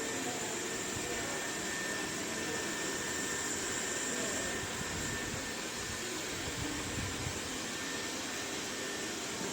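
Dreame D9 Max Gen2 robot vacuum running, a steady rush of suction with a faint high whine.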